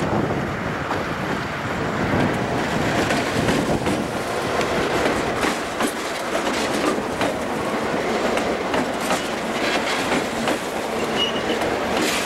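Freight train rolling past, its wheels clicking irregularly over the rail joints, with a brief high wheel squeal near the end.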